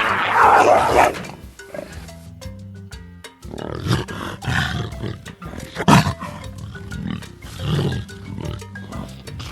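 An animal call, a loud roar at the start and then several shorter growls, over steady background music.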